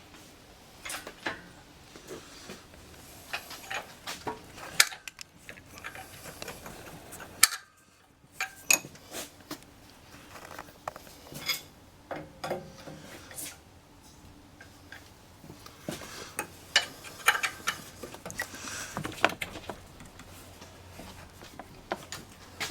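Irregular metallic clinks, taps and knocks of hand tools, bolts and steel parts as a transmission is worked into place against a freshly installed V8 engine during an engine swap.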